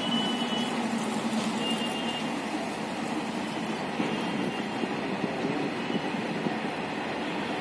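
Freight train of open box wagons behind a WAG-9 electric locomotive rolling past, a steady rumble of wheels on rails. A couple of short, high squeals come in the first two seconds.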